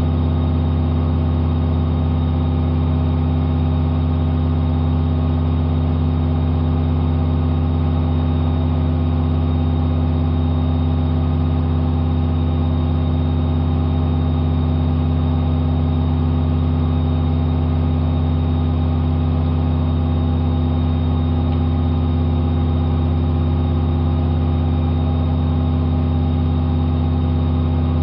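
AEG Lavamat 5210 washing machine spinning at high speed, its motor and drum giving a loud, steady hum made of several held tones that does not change.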